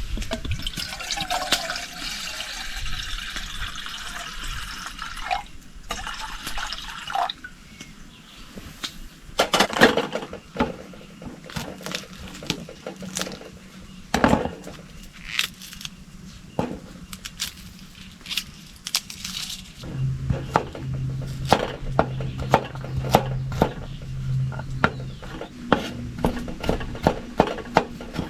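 Water pouring into a cooking pot for several seconds, then many sharp clicks and knocks of pot and utensils while pasta is prepared over a campfire. A low steady hum lasts about five seconds in the last third.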